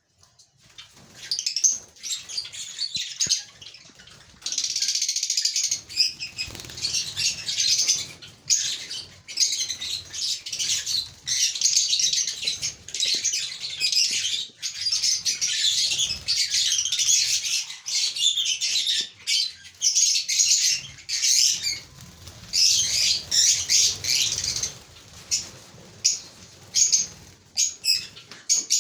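Pet lovebirds chattering shrilly, with wing flutters: scattered at first, then a near-continuous stretch, thinning out again near the end.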